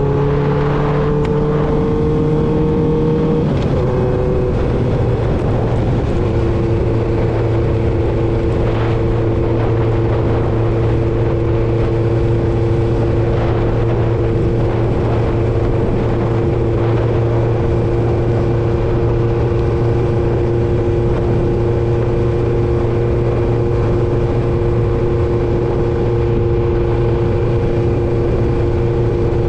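1995 Honda CB750 Nighthawk's inline-four engine through a Vance & Hines 4-into-1 exhaust, heard from the moving bike. The engine note climbs slightly, drops about four seconds in, then holds a steady cruising pitch.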